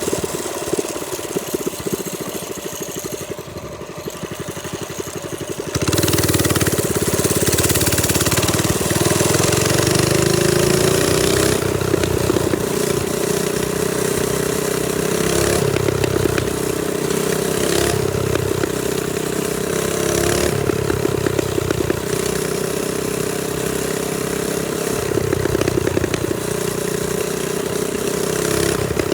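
Trailmaster Storm 200 minibike's 196cc single-cylinder engine running on a ride. It is quieter for the first few seconds, then gets louder about six seconds in and holds a fairly steady pitch.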